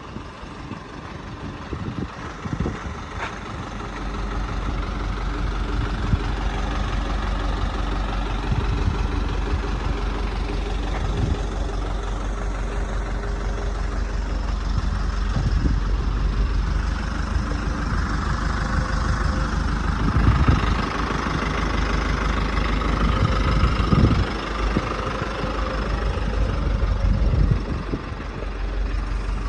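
Truck engine idling with a steady low rumble that sets in a few seconds in, with a few short knocks.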